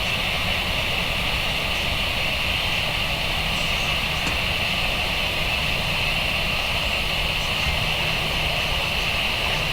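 Airbus A320's CFM56 jet engines running steadily at taxi power, a constant whine and rumble, with the hiss of heavy rain.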